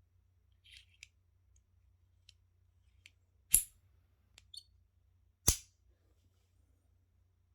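Small clicks and taps of items being handled during an air rifle unboxing, then two loud sharp clicks about two seconds apart.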